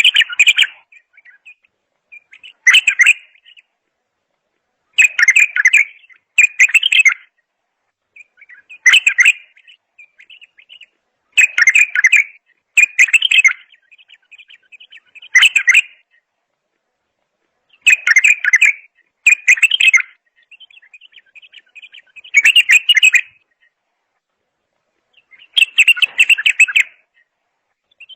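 A songbird singing loud, rich phrases about a second long, roughly every two seconds, with softer twittering between them: about a dozen phrases in all.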